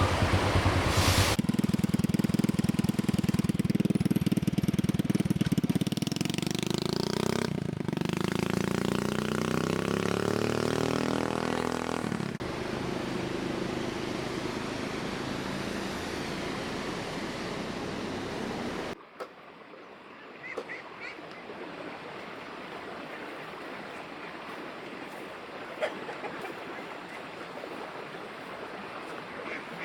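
A motor vehicle engine running loudly, its pitch falling as it slows or moves off, then a steady rush. About two-thirds of the way through it cuts to quieter outdoor sound with a few short bird calls.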